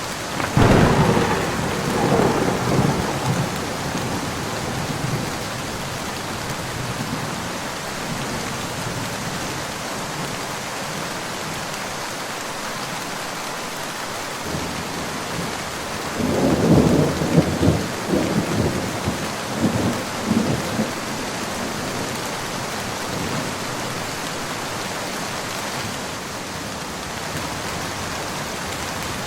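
Steady rain falling, with two rolls of thunder: a sharp crack and rumble about a second in, and a longer rolling rumble in the middle.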